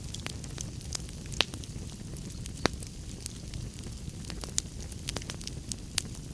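Wood fire burning in a fireplace: a low steady rumble of flames with irregular crackles and several sharp louder pops.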